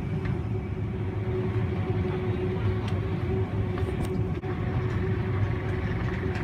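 Airport moving walkway running: a steady low rumble with a constant hum, and a few faint ticks.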